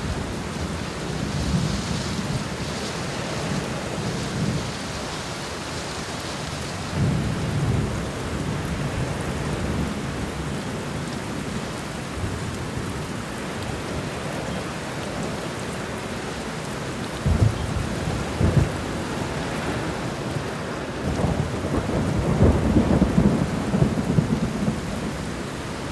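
Thunderstorm: steady rain with rumbling thunder. Two short, sharp thunderclaps come a little past halfway, and a longer, heavier roll of thunder builds near the end.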